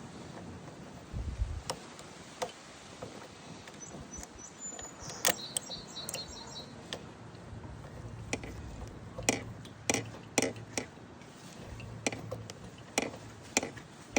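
Irregular sharp clicks and light knocks of hand tools and small parts being handled on a lawn mower's carburetor and fuel line. They come more often in the second half, and there is a brief high squeak about five seconds in.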